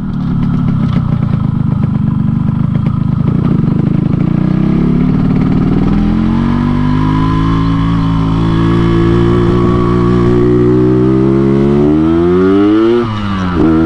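2004 Yamaha RX-King's 135 cc two-stroke single, tuned 'Medan style' for its snoring ('ngorok') exhaust note, heard on the move. It runs low and steady for the first few seconds, then climbs in pitch over several seconds as the bike accelerates and holds there, dips sharply near the end, and rises again.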